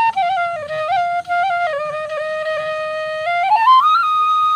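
Background music: a solo flute playing a slow melody, holding a long low note in the middle and then rising to a higher held note about three and a half seconds in.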